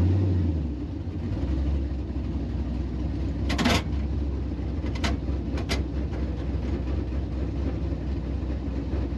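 Car engine idling steadily with a low rumble, with a few short sharp clicks about three to six seconds in.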